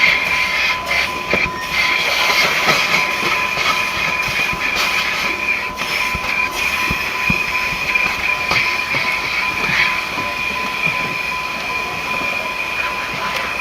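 Car wash machinery running: a loud, steady rushing noise with a constant high whine and scattered clicks and knocks.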